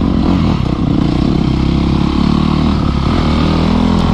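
Dirt bike engine running steadily under way, its revs climbing a little near the end.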